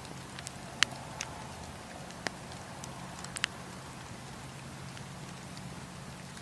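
Wood campfire burning with a steady rushing hiss, broken by a handful of sharp crackles and pops from the burning wood, the loudest a little under a second in.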